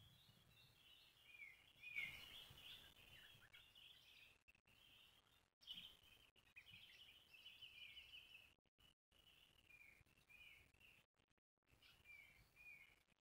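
Faint birdsong: a steady run of short, high chirps and little falling whistles, one after another.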